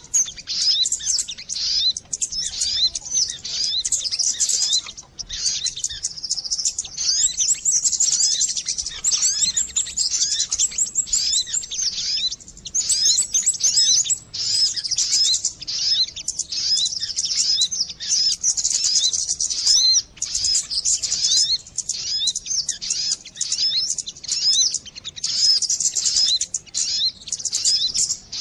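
Recorded lure call of the sogon, a sunbird: rapid, high, thin chirps and twittering trills, nearly continuous with only brief breaks.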